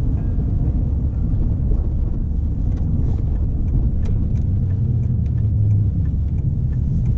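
Car being driven: a steady low rumble of engine and road noise, with faint scattered ticks.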